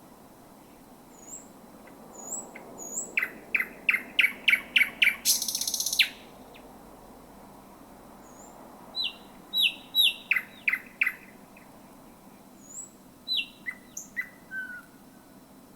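Thrush nightingale singing. It gives a phrase of about nine rapid, loud, clicking notes that ends in a dry rattle. After a pause comes a run of about six down-slurred whistles, and a few scattered notes follow near the end.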